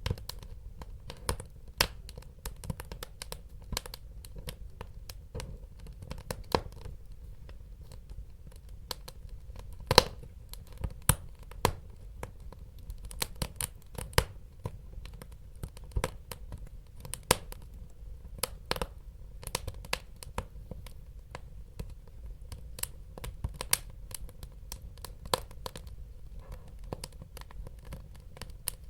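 Wood fire crackling: irregular sharp pops and snaps, a few louder ones, over a low steady rumble of burning.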